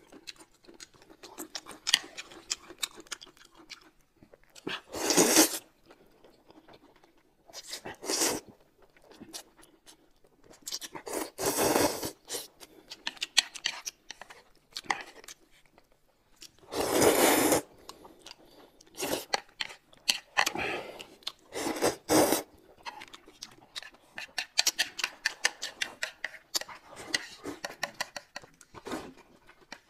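Close-miked eating sounds: steady chewing and crunching, with many small wet clicks and several louder bursts about a second long.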